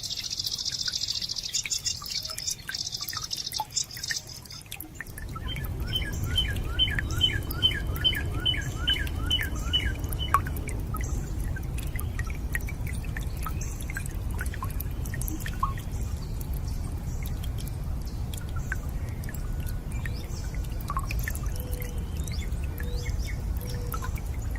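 Birds singing over water drips and a steady low rush of running water. A rapid high trill fills the first few seconds. From about five seconds in, the water sound comes in, along with a run of about a dozen quick repeated chirps and scattered calls afterwards.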